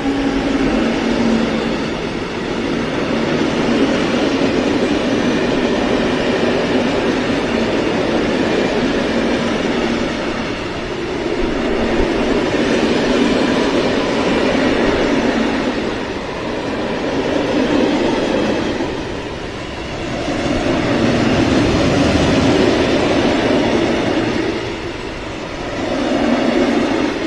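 Loaded freight train's high-sided open wagons rolling past close by: a loud, continuous wheel-on-rail rumble that swells and eases every few seconds as the wagons go by.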